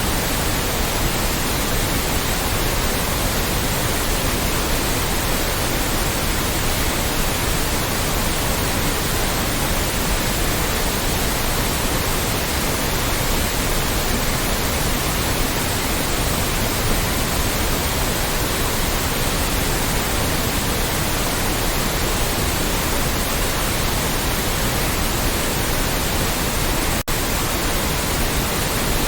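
Loud, steady generated white noise, an even hiss spread across all pitches, with a momentary dropout near the end.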